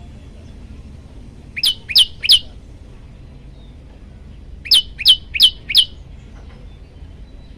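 Prenjak lumut singing: a quick group of three loud, sharp notes, each sweeping downward, then after about two seconds a group of four.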